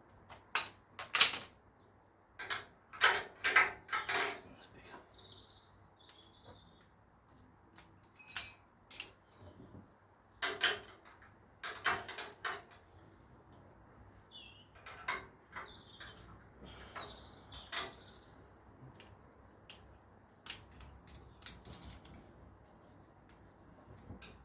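Hand tools clinking and knocking on metal: irregular sharp clicks of a spanner and sockets being handled and fitted to the motorcycle's exhaust fasteners, busiest in the first few seconds. Faint bird chirps are heard in the background.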